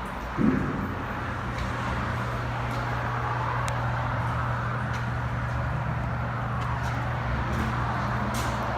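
A brief thump about half a second in, then a steady machine hum with a constant rushing noise.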